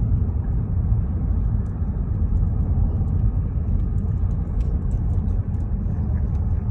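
Car driving along a road: a steady low rumble of road and engine noise, with faint scattered ticks.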